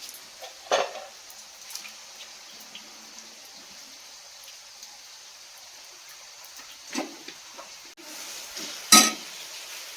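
Cooking sounds: a metal utensil clattering against a cooking pot three times, the last near the end the loudest, over a steady hiss.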